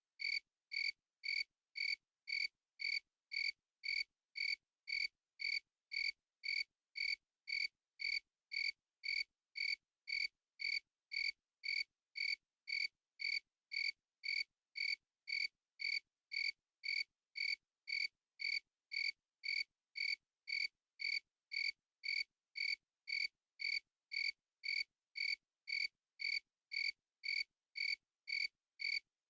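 A single cricket chirping in a steady, even rhythm, about two chirps a second, with clean silence between chirps.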